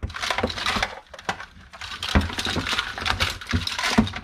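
Electrical cords and plastic items being rummaged and pulled out of a tangled pile: an irregular run of knocks, clicks and rattles.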